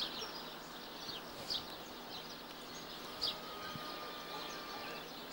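A bird repeating a short, high, falling chirp about every second and a half, over a steady hiss.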